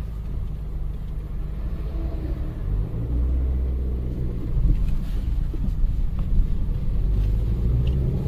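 Maruti Suzuki Baleno hatchback on the move, heard from inside the cabin: a steady low engine and road rumble that gets louder about three seconds in.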